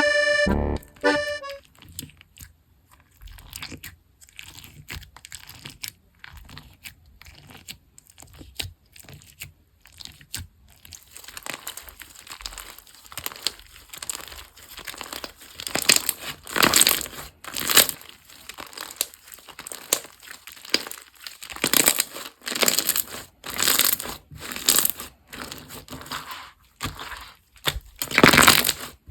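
Slime being squeezed, poked and stretched by hand, giving irregular crackling and crunching, faint at first and getting louder about halfway through. A short musical jingle plays at the very start.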